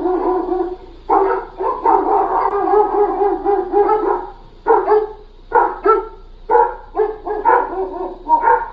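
A dog howling in a long wavering call, then barking in a run of short, quick barks.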